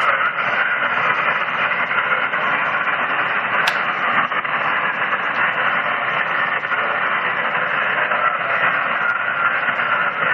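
Shortwave static hiss from an HF amateur radio receiver in single-sideband (USB) mode, a steady band of noise limited to the receiver's voice passband, with one brief click about four seconds in.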